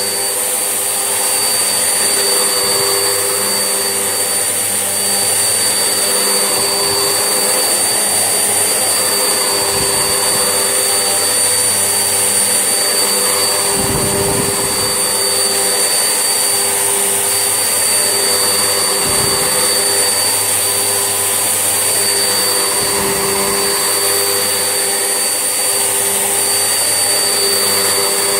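Vax Essentials vacuum cleaner running steadily while hoovering, its motor giving a constant high whine, with a few brief low bumps as it is worked back and forth.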